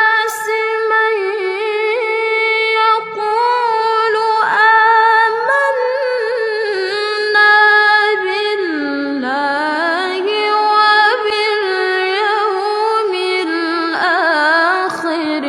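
Melodic Quran recitation in Arabic by a single high voice, unaccompanied, holding long drawn-out notes with ornamented, wavering pitch and only brief pauses for breath.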